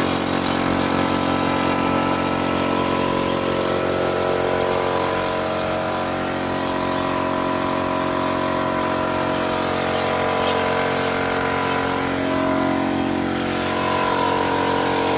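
A power tool's motor running steadily at full speed, a continuous whine that cuts off suddenly at the end.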